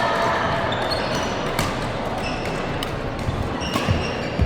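Badminton rally on an indoor court: sharp clicks of rackets striking the shuttlecock several times, short high squeaks of court shoes on the floor, and thuds of footwork, with the hall's echo.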